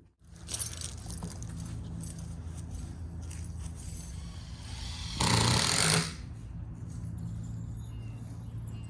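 A steady low mechanical hum, with a loud rushing burst of noise lasting under a second about five seconds in.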